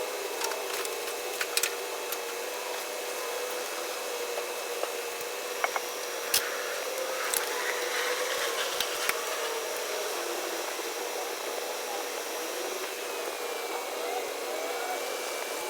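Pressure washer running steadily, a constant whine over a hiss, with a few sharp clicks.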